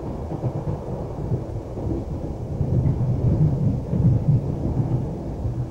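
Low, uneven rumble of a moving train heard from inside the carriage, swelling a little louder in the middle.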